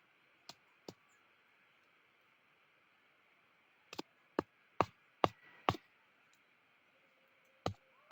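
Hammer striking nails into wooden sticks: sharp separate knocks, two near the start, a quick run of about six in the middle, and one more near the end.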